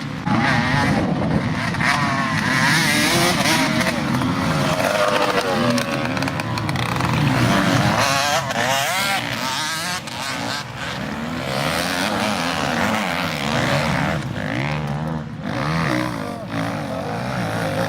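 Several motocross motorcycles racing, their engines overlapping and revving up and down, the pitches rising and falling as the bikes accelerate and back off.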